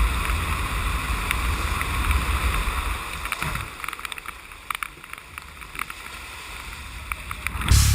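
Outdoor rumble of wind and water, loud for about three seconds and then easing off, with a few scattered light knocks.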